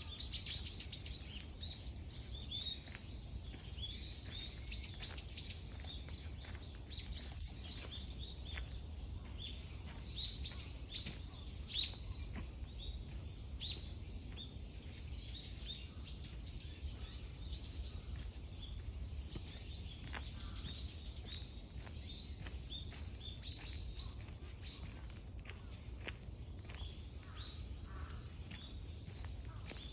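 A chorus of many small songbirds, with rapid short chirps and tweets overlapping without a break, over a steady low rumble.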